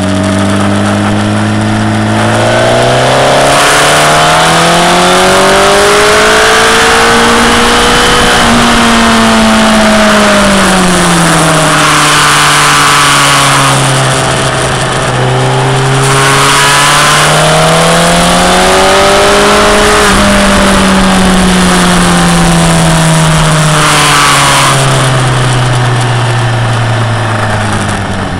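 Motorcycle engine heard from on board while riding, its pitch climbing smoothly with the throttle and falling away again, twice over. A steady rush of wind noise lies under it and swells at times.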